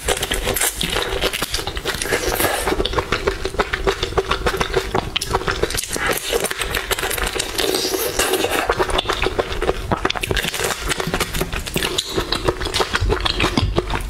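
Close-miked eating of whole marinated shrimp: a dense, continuous run of wet chewing, sucking and shell-crunching clicks.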